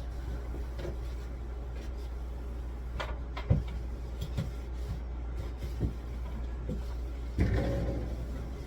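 Knocks and light clatter of containers and fridge parts being handled while a refrigerator is wiped out, with one sharper knock about three and a half seconds in and a longer clatter near the end, over a steady low hum.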